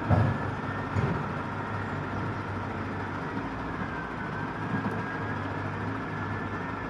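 Dump truck engine running steadily, with a few knocks in the first second and a faint high whine that dips slightly in pitch midway.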